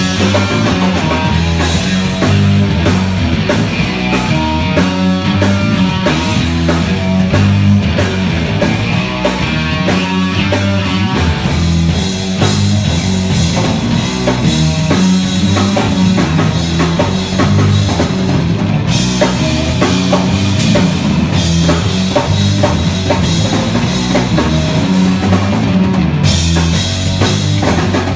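Live funk-rock band playing an instrumental passage: electric guitar, a driving bass line on a Fender Jazz Bass through an Ampeg SVT amp, and a drum kit.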